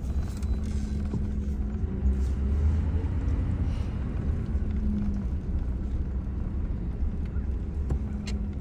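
Steady low rumble of a vehicle's engine and drivetrain heard from inside the cab while driving, with a constant low hum over it.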